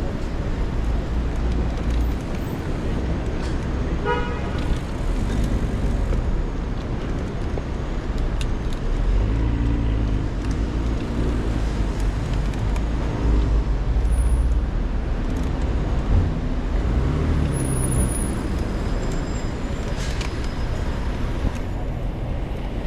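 City street traffic heard from a moving bicycle: motor vehicles running and passing, their engine pitch rising and falling, over a steady low rumble. A short horn toot comes about four seconds in.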